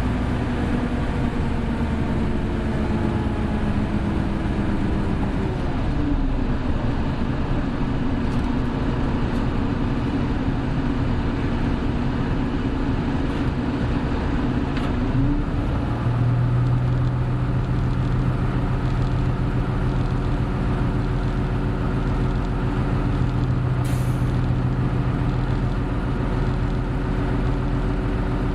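Hino Blue Ribbon City Hybrid bus (BJG-HU8JLFP) driving. Its engine and drive tones fall about six seconds in, rise again around fifteen seconds and then hold a steady low drone. A brief hiss of air comes near the end.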